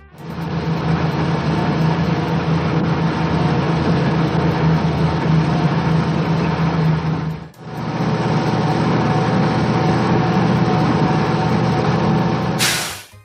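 Truck engine sound effect running steadily with a low hum. It breaks off briefly about seven and a half seconds in, then runs again and ends in a short sharp hiss.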